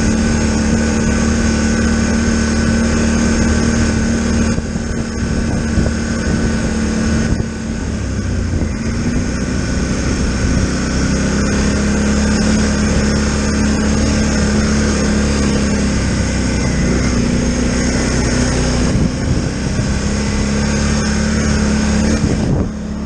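Polaris Sportsman Highlifter 1000 ATV engine running on the trail. Its note steps up and down a few times with the throttle.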